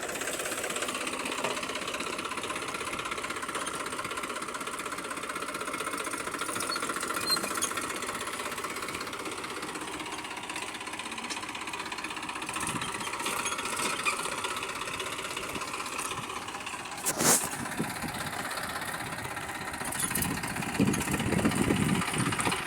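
An engine running steadily, with a single sharp knock about 17 seconds in and louder rumbling near the end.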